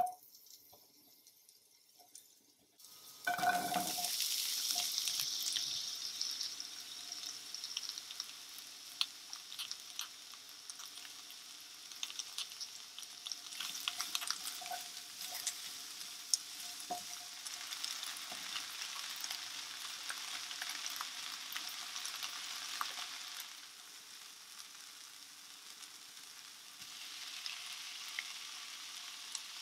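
Garlic and diced onion sizzling in olive oil in a frying pan, with a wooden spatula clicking and scraping as it stirs. The sizzle starts suddenly about three seconds in, loudest at first. It eases off and then swells again near the end as diced tomato goes in.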